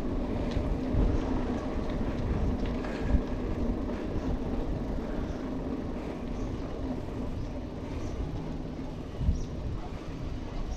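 Mountain bike rolling over a rough trail: a steady rumble of tyres with small knocks and rattles from the bike, and a sharper knock about three seconds in.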